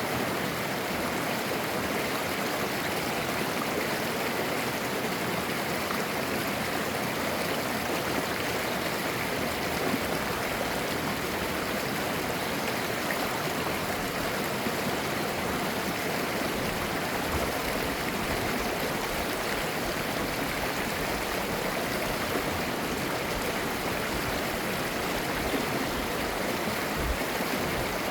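A mountain stream running over rocks, a steady babbling and gurgling of clear water.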